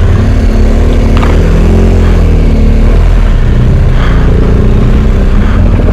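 BMW R1250GS Adventure's boxer-twin engine riding off-road in low gear, the revs rising and falling twice as the throttle is worked over rough ground.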